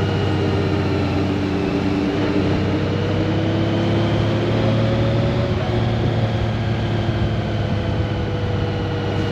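Honda Gold Wing DCT's flat-six engine running under way, over a steady low rumble. Its pitch climbs slowly for a couple of seconds and then drops back about halfway through.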